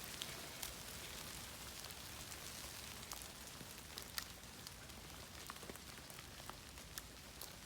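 Steady rain pattering, with scattered sharp crackles and pops, the loudest about four seconds in, from a small birch-wood campfire as its wood starts to catch.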